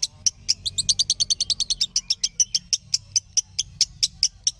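Lovebird chirping: a string of sharp, high chirps at about four or five a second, quickening into a fast run of chirps from about half a second to two seconds in.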